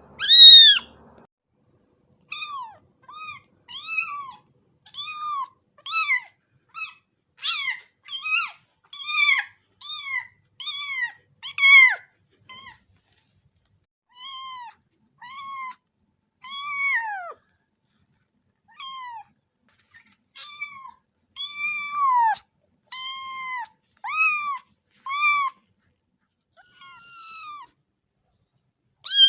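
Cat meowing over and over: short, high-pitched mews, each rising and falling in pitch, coming about one or two a second, with the loudest right at the start and a couple of short pauses.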